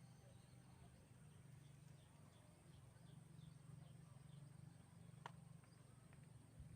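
Quiet outdoor ambience with a steady low hum. About two seconds in, a small animal gives a run of about eight short high chirps, roughly three a second, and a single sharp click follows a few seconds later.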